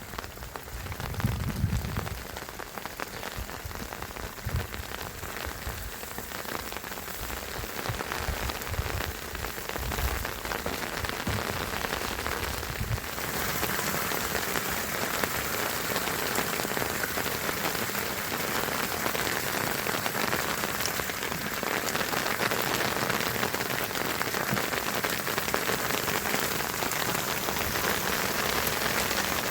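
Steady rain falling on surfaces, a dense, even patter that grows a little louder and fuller about halfway through. A few low thuds come in the first half.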